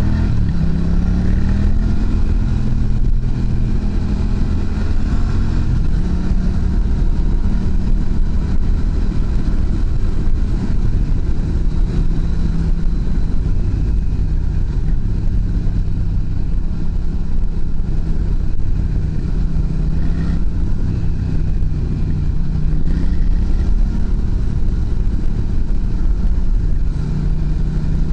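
Yamaha MT-07 parallel-twin engine running through an aftermarket muffler. Its pitch climbs over the first two seconds, then holds fairly steady with small rises and falls, over a heavy low rumble.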